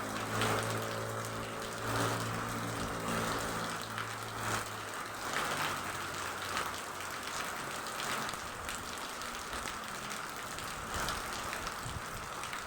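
Steady rain falling, with individual drops striking a surface throughout. A low mechanical hum with several steady tones is there at first and fades out about halfway through.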